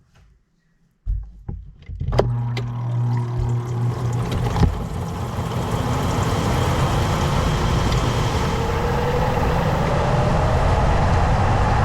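Motor of a My Wave Duo2.5 compact two-tub washing machine starting after a few clicks, running with a steady hum while a whine climbs steadily in pitch as the tub spins up.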